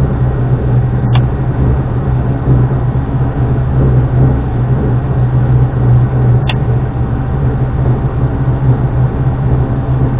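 Subaru Impreza rally car's flat-four engine running at a steady pitch, with two sharp clicks, one about a second in and one past the middle.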